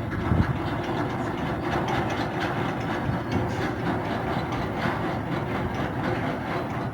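A heavy engine's steady, rumbling drone, with an uneven low churn underneath.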